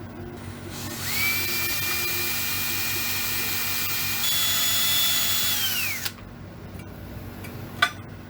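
Electric drill motor spinning up to a high whine, jumping to a higher pitch partway through, then winding down and stopping; a single sharp click comes shortly after.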